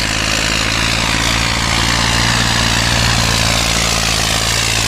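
Tractor engine running hard and steady, a loud continuous drone as the tractor works through the off-road course.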